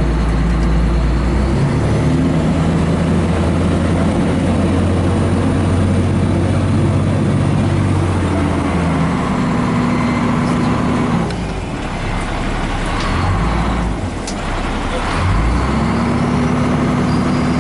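Pierce fire engine's diesel engine heard from inside the cab while the truck drives to a call, its engine note stepping up and down in pitch as it accelerates and changes gear. A few sharp clicks come in the second half.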